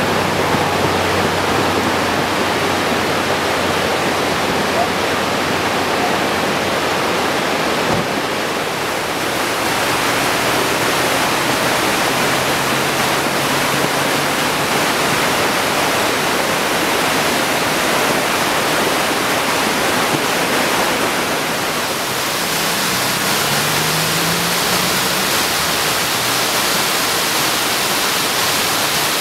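Flash-flood water rushing steadily, a loud continuous wash of moving water.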